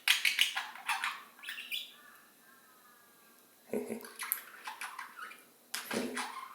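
Pet budgerigars chattering: quick bursts of sharp chirps, loudest in the first second and a half, then a short wavering warble and more chirping calls around four and six seconds in.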